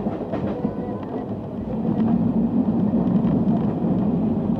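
Passenger train running at speed, heard from an open coach door: a steady rumble of wheels on the rails that grows louder about two seconds in.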